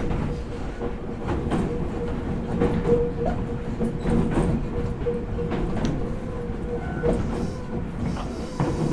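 Meitetsu 4000 series electric train running, heard from inside the car: a steady rumble with a held whine, and the wheels clicking irregularly over rail joints.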